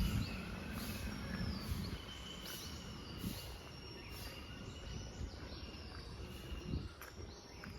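Birds calling: a short high chirp that bends in pitch, repeated over and over about once or twice a second, with a thin steady high note held for a few seconds in the middle.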